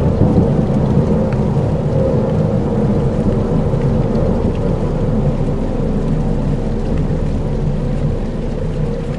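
Dark ambient soundscape: a steady, deep rumble with a rain-like hiss over it and faint held tones. There are no beats or distinct events.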